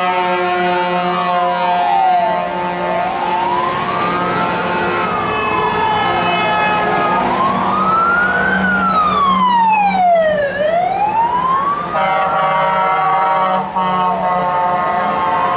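A siren wailing, rising and falling slowly about every four seconds, over a loud steady drone of several held tones. Near the end, a few seconds before it stops, the drone shifts and grows stronger.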